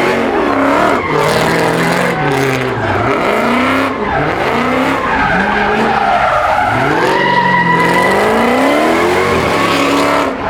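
A car engine revving hard up and down over and over while its tyres squeal and skid as the car drifts.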